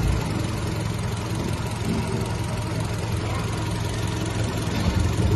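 2016 Kia Venga 1.4 petrol engine running at idle with a steady low hum. The engine has an intermittent cylinder 1 misfire, caused by a loose connector pin at the ECU plug on the ignition coil control wire.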